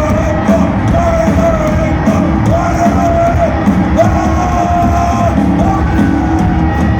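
Live rock band playing loud, with heavy drums and bass under a melody of long held notes that bend up and down.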